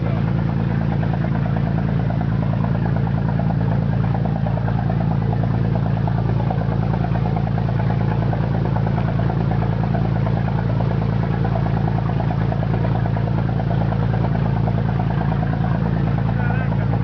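Boat engine running at a steady speed: an even, unchanging low drone.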